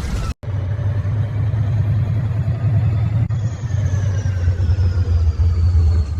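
Steady low rumble of a running vehicle engine, with a faint high whine slowly falling in pitch. It starts after a brief dropout about half a second in.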